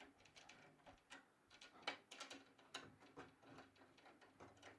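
Faint, irregular clicks and ticks of a drum key turning a snare drum's tension rods by hand.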